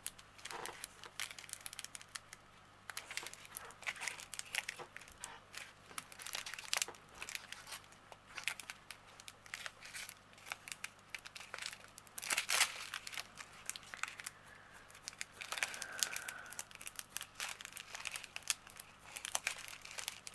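Small plastic bags of diamond-painting drills crinkling and rustling as they are handled, with many irregular sharp crackles.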